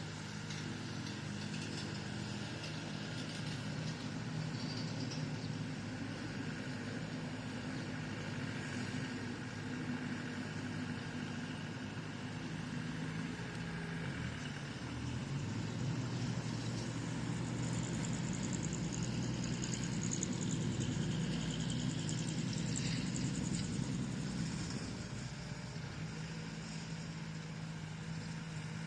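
Bulldozer's diesel engine running steadily. It grows louder for several seconds past the middle, then settles back to its earlier steady note.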